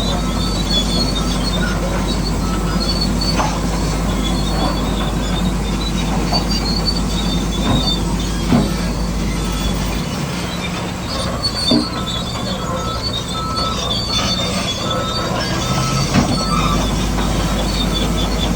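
Tracked bulldozer working, its tracks squealing and clanking over a steady machine drone, with occasional knocks.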